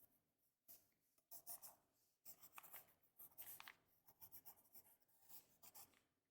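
Pencil scratching on paper in a series of short, faint strokes, some sketched quickly one after another.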